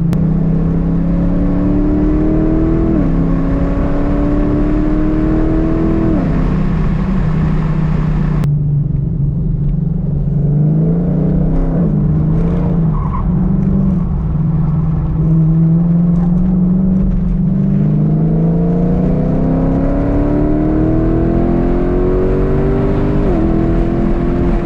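Cammed Dodge Charger R/T's 5.7-litre HEMI V8 with long-tube headers and Borla mufflers, accelerating hard through the gears. Upshifts drop the pitch about three and six seconds in, the revs ease and pick up again through the middle, then a long climb ends in another shift near the end.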